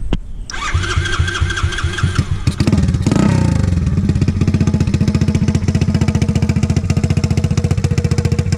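Ice Bear Champion CT70-clone pit bike engine, fitted with a newly installed Trail Buddy Thumper exhaust, being started: the electric starter cranks with a whine for about two seconds. The engine catches with a short rev about three seconds in and then settles into a steady, even idle.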